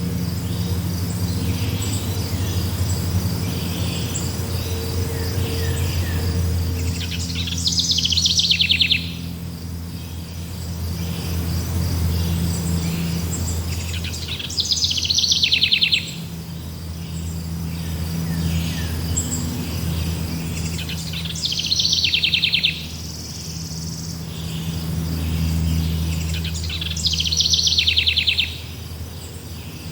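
Forest birdsong: one bird repeats a loud, fast descending trill about every six to seven seconds, four times. Beneath it run a steady high chirring of insects and a low hum.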